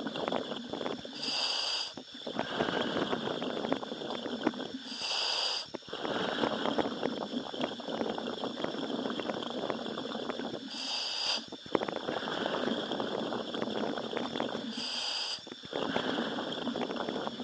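A diver's breathing heard through a commercial diving helmet's communications line. Spells of bubbling, crackling exhalation lasting three to four seconds alternate with a short hiss of inhalation through the demand valve, about every four to five seconds.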